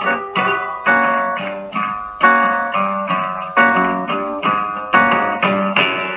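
Acoustic guitar fado accompaniment playing an instrumental passage without singing: a steady rhythm of plucked notes and strummed chords, each ringing and fading before the next.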